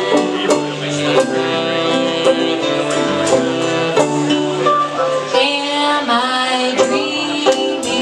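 Acoustic band playing live: plucked string instruments and guitar over a steady beat of about two strikes a second, with a sliding melodic line entering about five seconds in.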